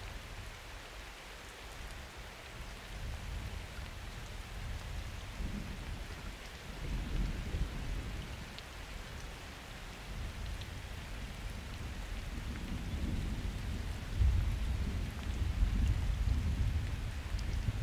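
Steady rain falling, with distant thunder rumbling in low swells, once about a third of the way in and again more strongly in the last third.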